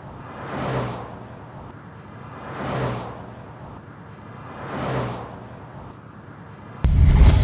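A run of vehicles passing one after another, each rising and fading over about a second and a half. Near the end a much louder engine noise cuts in suddenly.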